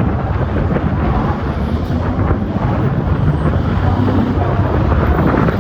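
Loud, steady low rumble of a rally car's engine on the stage, without sharp changes in pitch.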